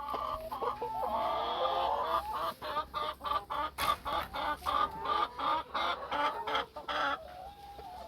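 A flock of chickens clucking, several birds at once, with a quick run of short repeated clucks through the middle that dies down near the end.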